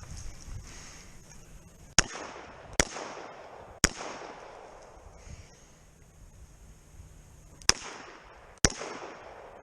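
Revolver shots: three about a second apart, a pause of nearly four seconds, then two more, each crack trailing off in a short echo.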